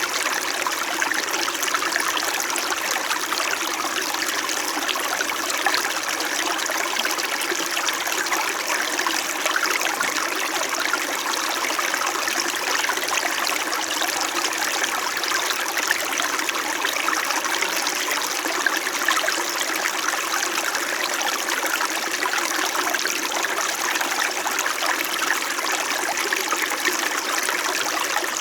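Small winter mountain stream flowing and burbling over stones, a steady even rush of running water.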